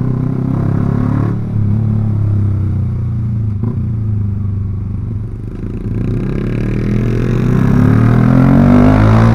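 Yamaha R15 V3's single-cylinder engine through a Proliner aftermarket exhaust, running at steady cruising revs, then accelerating over the last few seconds with a rising pitch and growing louder.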